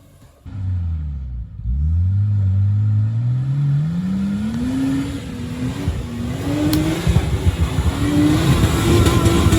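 Off-road 4x4's engine accelerating under load. After a short dip, its pitch climbs steadily for several seconds, with brief drops partway through, and it grows louder and rougher toward the end.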